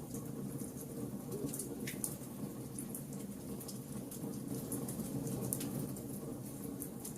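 Wood fire burning: a steady low rush of flames with frequent sharp crackles and pops from the burning wood.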